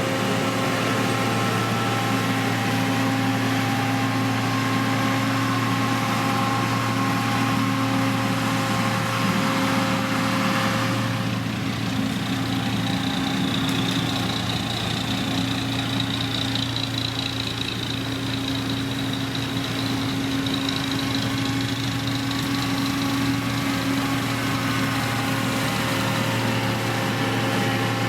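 Diesel engine of heavy road-building machinery running steadily, with a faint high whine that comes in over the middle stretch.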